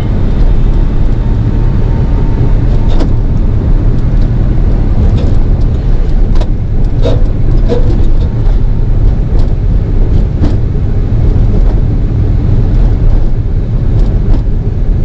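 Nissan 350Z's 3.5-litre V6 running steadily on the move, a loud low rumble that holds an even pitch, with occasional faint ticks.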